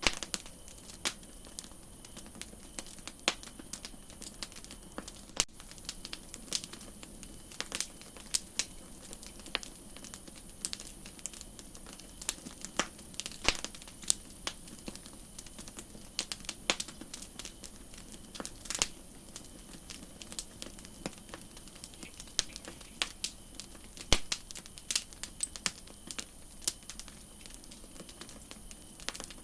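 Campfire crackling: irregular sharp pops and snaps of burning wood, roughly one or two a second, over a steady soft hiss.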